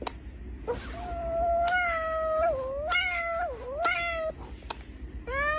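A cat meowing: three long, drawn-out meows from about a second in, and another starting near the end.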